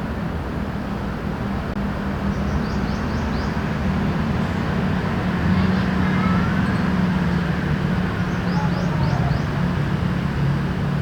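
Steady city traffic noise with a low engine hum. Twice, a few seconds in and again near the end, a quick run of about four high chirps rises over it.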